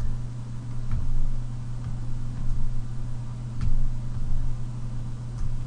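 Steady low electrical hum in the recording, with a few faint clicks spread through it.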